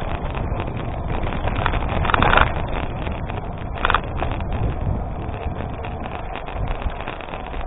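Wind rushing over the microphone of a gravel bike moving along an unpaved road, with the tyres rolling over gravel and many small clicks and rattles. There are louder bursts about two seconds and four seconds in.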